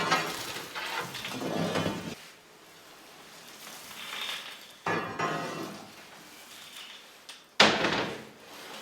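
Bakery equipment clattering: a few sharp knocks and clanks with a short ring after each, the loudest near the end.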